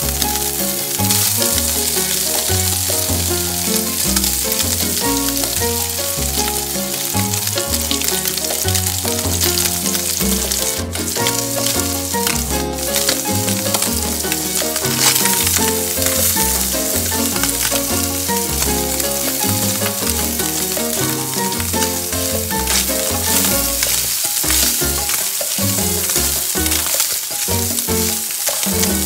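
Diced Spam frying in oil in a nonstick pan: a steady sizzle, with a wooden spatula stirring the cubes near the end. Background music with a stepping bass line plays throughout.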